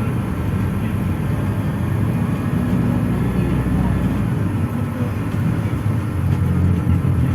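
Interior of a PAZ-422320-14 'Citymax 9' city bus in motion: a steady engine drone with road and tyre noise, the engine note shifting about halfway through.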